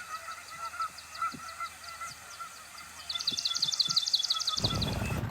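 Goose honking repeatedly while small birds chirp, with a fast run of high chirps about three seconds in. Near the end the sound cuts to wind buffeting the microphone.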